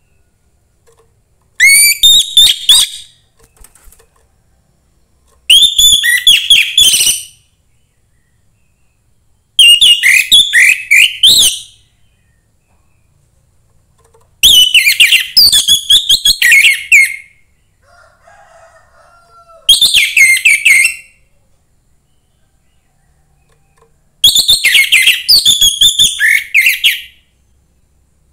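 Young wild-caught orange-headed thrush singing: six loud phrases of rapid, varied whistled notes, each one to three seconds long with pauses of a few seconds between them.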